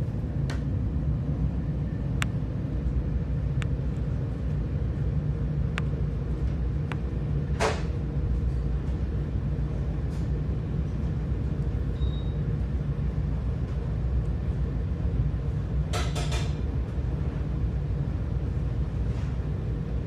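Passenger train running: a steady low rumble with scattered sharp clicks, a louder knock about eight seconds in and a short run of knocks about sixteen seconds in.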